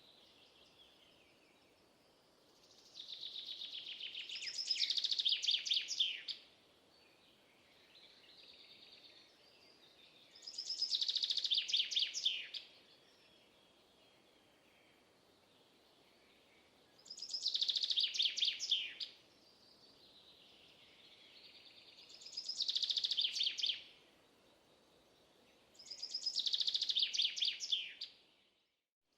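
A songbird singing: five high, trilled phrases of two to three seconds each, every one a fast run of notes, spaced about six seconds apart over faint outdoor background noise. The sound cuts out completely for a moment near the end.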